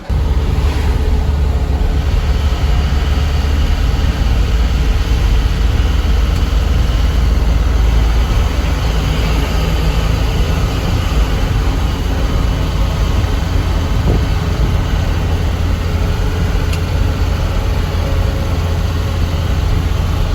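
A truck on the move: a steady, loud, deep engine drone with road noise, starting suddenly.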